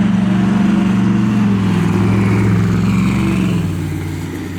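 Car engine running at low revs with a deep, steady note. The pitch steps down twice and the sound eases off toward the end, as the car rolls away.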